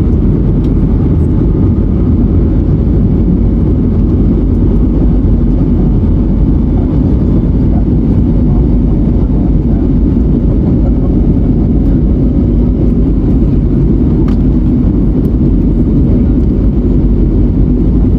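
Steady, loud cabin rumble of an Airbus A321neo heard from inside the cabin: engine and airflow noise from its Pratt & Whitney geared turbofans, holding level with no spool-up or spool-down.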